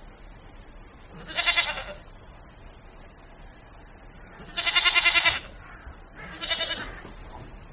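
An animal calling three times, each a quavering, wavering cry; the middle call is the longest and loudest.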